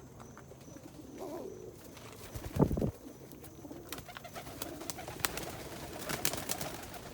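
Homing pigeons cooing in a loft, a low warbling coo that goes on and off. A brief low thump comes about two and a half seconds in, and scattered sharp clicks come near the end.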